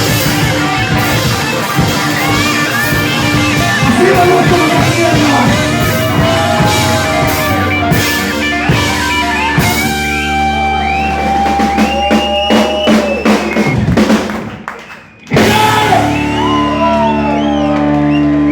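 Rock band playing live: drum kit and electric guitars, breaking off almost to silence about fifteen seconds in, then coming back on a long held chord.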